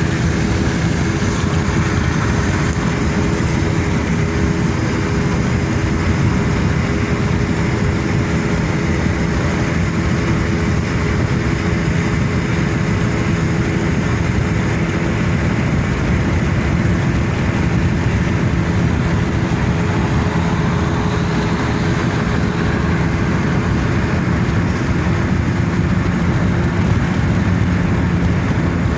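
Car driving, with steady engine and road noise that holds level throughout.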